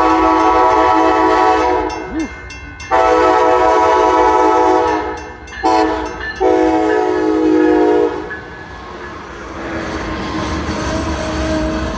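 Amtrak Blue Water locomotive's multi-chime horn sounding long, long, short, long blasts, the standard grade-crossing signal, as the train approaches. After the last blast ends, about eight seconds in, the train's rolling noise goes on, steady and quieter.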